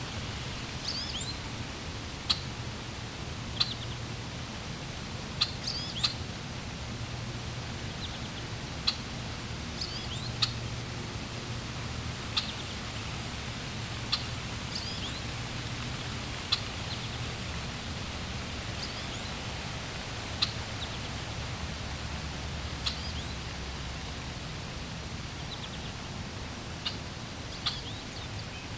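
Small birds chirping in short, sharp calls every second or two over a steady rush of flowing water.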